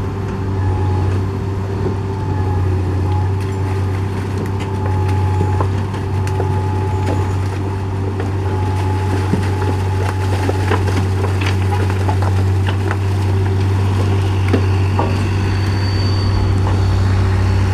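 Heavy diesel machinery running steadily at a low, even hum. From about the middle onward, scattered sharp knocks and crunches of breaking road material join it.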